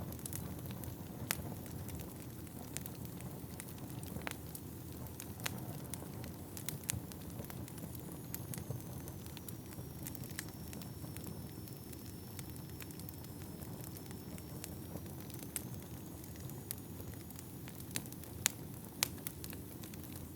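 Wood fire burning in a fireplace: a steady low rumble of flames with scattered sharp crackles and pops from the logs. A faint, thin high whistle holds through the middle.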